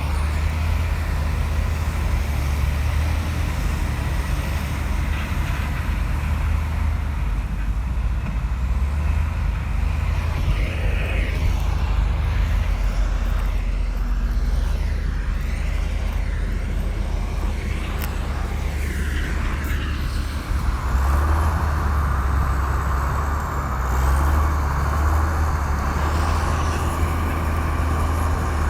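Komatsu bulldozer's diesel engine running steadily with a deep drone as the machine works. Faint higher squeaks come through in the middle, and a harsher mid-pitched noise grows louder about two-thirds of the way through.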